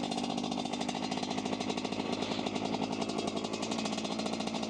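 Dirtbike engine running at a steady speed, its firing strokes making a rapid, even pulse that holds the same pitch throughout.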